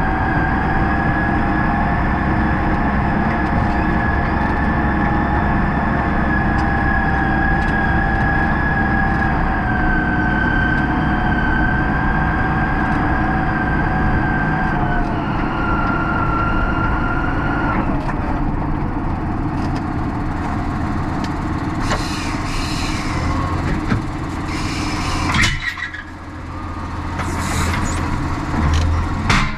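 Tractor engine running steadily with a high, steady whine over it. The whine drops in pitch about halfway through and fades out soon after. The engine dips briefly near the end, then picks up again.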